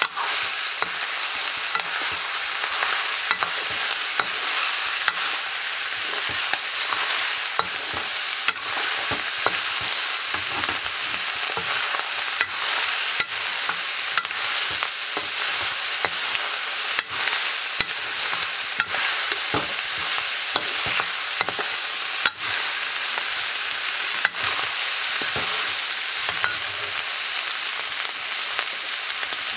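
Vegetables and onions sizzling as they fry in a hot karahi, with a steady frying hiss and a metal ladle scraping and clinking against the pan as the food is stirred.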